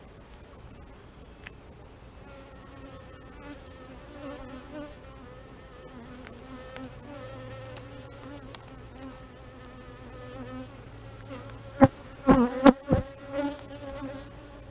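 Honey bees buzzing in a steady, wavering hum around an open hive. Near the end come a few sharp, loud knocks.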